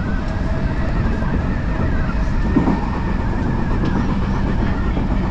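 Odakyu Line electric commuter train running along the track: a steady, unbroken rumble of the wheels and running gear.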